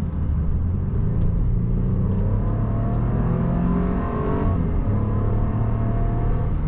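2016 BMW Z4 28i's 2.0-litre turbocharged four-cylinder accelerating, its note rising in pitch for about three seconds. A little past halfway the pitch drops at a gear change, and the engine settles into a steady lower drone.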